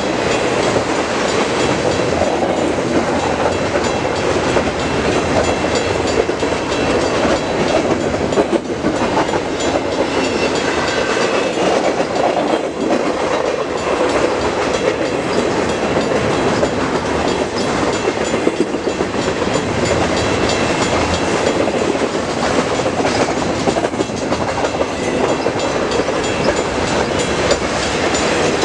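CN intermodal freight train's cars rolling past: a loud, steady rumble of steel wheels on rail.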